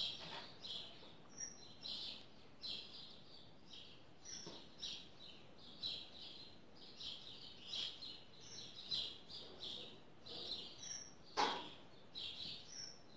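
Small birds chirping in the background, a steady run of short high chirps several times a second. A few soft handling knocks, the clearest about eleven seconds in.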